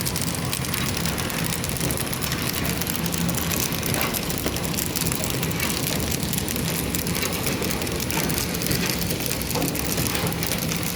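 Horizontal down-film flow-wrap packing machine running: a steady mechanical clatter over a low hum, with a few faint ticks.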